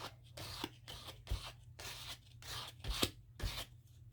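Scissors snipping through paper in a quick run of short cuts, about two to three a second, with a sharp click about three seconds in.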